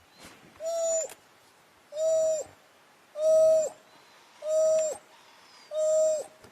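Five identical hoo calls at an even pace of about one every 1.3 seconds. Each is a clear single note about half a second long that dips slightly in pitch as it ends.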